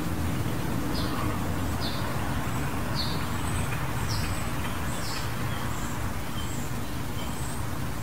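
Short, high bird calls repeated roughly once a second, with sharper chirps higher up in the second half, over a steady low rumble.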